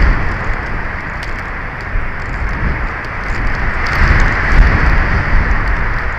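Strong wind buffeting the nest camera's microphone: a steady rushing with a low rumble, gusting louder about four seconds in.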